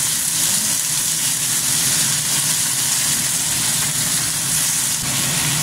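Chicken pieces and button mushrooms sizzling in a frying pan as a spatula stirs and turns them, over a steady low mechanical hum.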